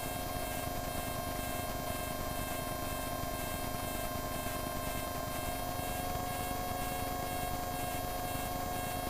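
Steady hum and hiss of a microlight's engine in cruise flight, heard through the aircraft's headset intercom, with several steady tones over a constant hiss.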